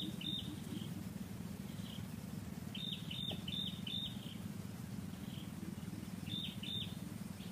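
A bird calling three times, each a quick run of four or five high, falling chirps, over a steady low buzzing drone.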